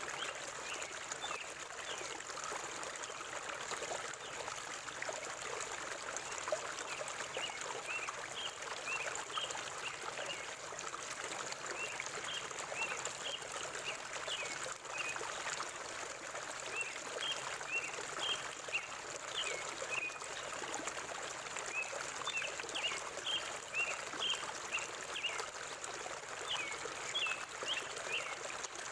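River water flowing steadily, with birds chirping in quick runs of short high calls every few seconds.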